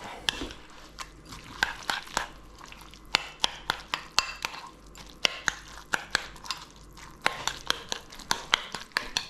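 Spoon mixing a thick yogurt, cucumber and mint dip in a bowl, clicking and scraping against the bowl in quick irregular taps, several a second.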